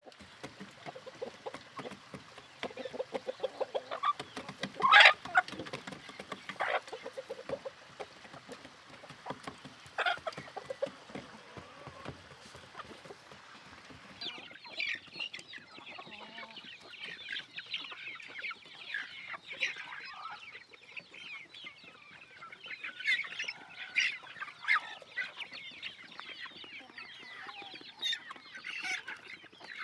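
Chickens clucking, with a few loud sharp calls in the first half; about halfway through the calls turn into a busier, higher-pitched chatter.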